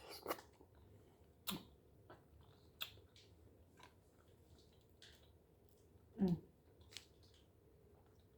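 Faint eating sounds: quiet chewing of mussels with a few small clicks and snaps of mussel shells, and one brief low sound about six seconds in.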